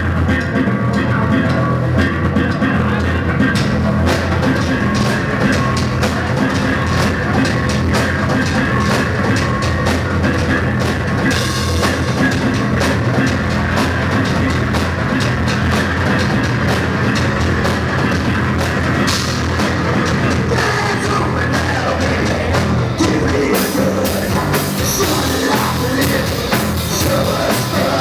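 Live rock band playing loud, distorted guitars over a driving drum kit, heard through a crowd-recorded audio track; the cymbals grow brighter near the end.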